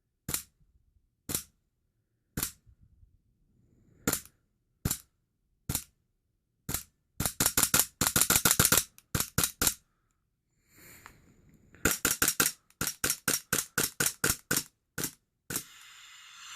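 WE-Tech M&P9 gas blowback airsoft pistol firing on a CO2 magazine: single sharp shots about a second apart at first, then fast strings of rapid fire in the second half. A steady hiss of escaping gas starts just before the end as the cartridge runs out.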